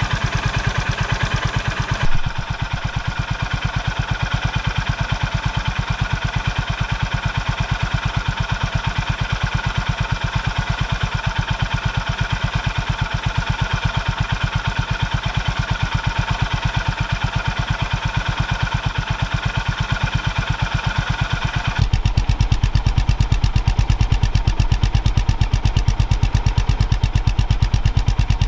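Honda GB350S single-cylinder engine idling through its stock muffler, a steady, even exhaust pulse. A short knock comes about two seconds in, and near the end the low exhaust note gets noticeably louder and fuller.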